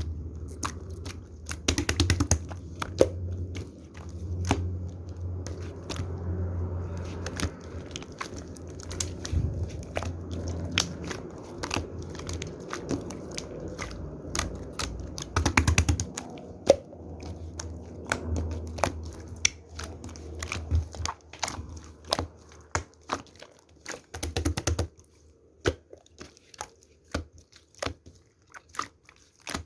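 Slime being squeezed and pressed by hand, with many small sharp clicks and pops. A low rumble runs underneath and drops away about three quarters of the way through, leaving only the clicks.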